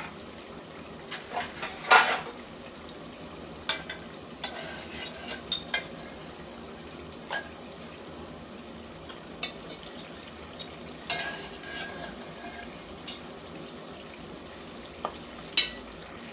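Spinach masala sizzling steadily in a metal pot as pieces of meat are added and stirred in, with a metal slotted spoon clinking against the pot and bowl; the loudest clanks come about two seconds in and near the end.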